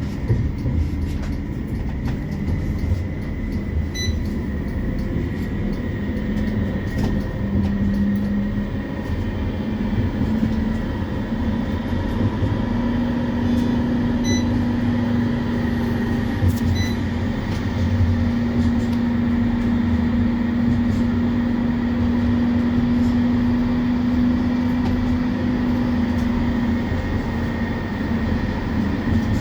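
CAF Urbos 3 tram running between stops, heard from inside the car: a steady low rumble of wheels and track, with an electric traction motor hum that steadies about halfway through and holds until near the end.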